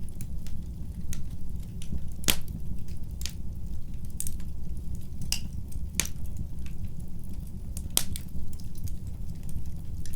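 Wood fire burning in a fireplace: a steady low rumble of the flames with irregular sharp crackles and pops, the loudest about two, six and eight seconds in.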